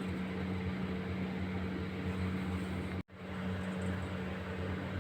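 Steady electric motor hum with a rushing hiss, like a kitchen appliance or exhaust fan running; it drops out abruptly about three seconds in and resumes at once.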